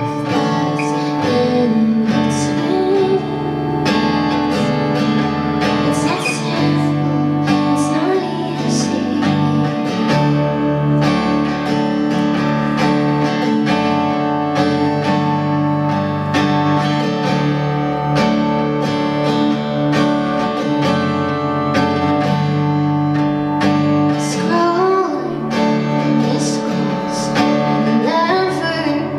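Live pop song: a strummed acoustic guitar with a woman singing over it, with her voice most prominent near the end.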